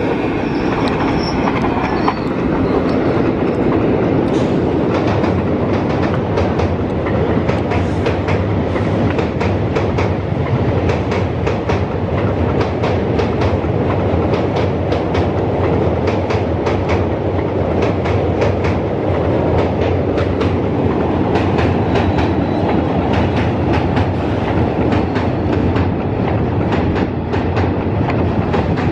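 Passenger train coaches rolling past at speed, the wheels clacking over rail joints in a steady stream of clicks over continuous rolling noise.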